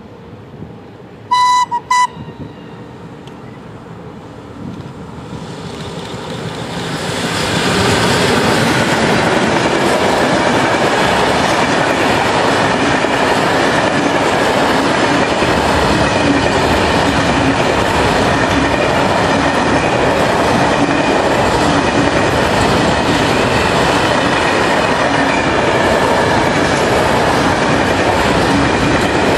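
A train gives two short horn blasts, then approaches, growing louder over several seconds. It passes close by with a long, steady rush of wheel and rail noise.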